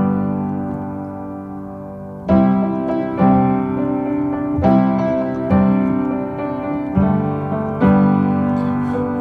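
Piano playing an instrumental passage of a pop song: a held chord, then repeated chords struck about every second from about two seconds in.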